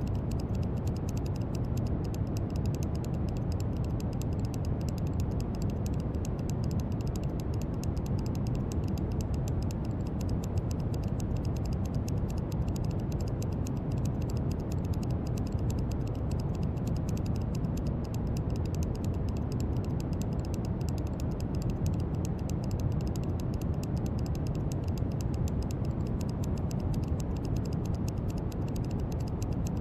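Steady brown noise: an even, deep hiss, strongest in the low end, that does not change.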